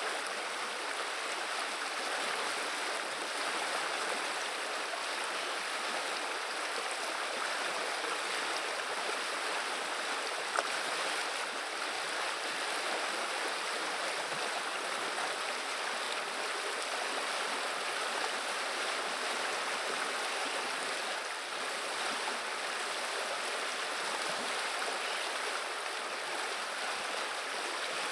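River water flowing steadily over its bed, an even rushing and babbling of running water, with one brief faint tick about ten seconds in.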